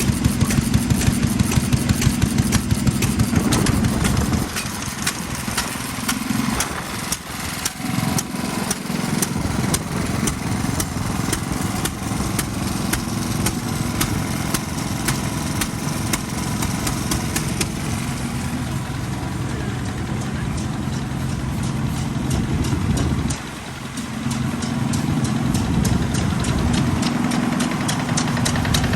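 Vintage single-cylinder stationary engines running with a steady, rapid rhythm of firing strokes. The sound thins out about four seconds in and dips briefly around twenty-three seconds.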